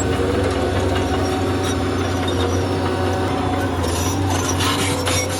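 Bulldozer's diesel engine running steadily, with scraping and clattering about four seconds in.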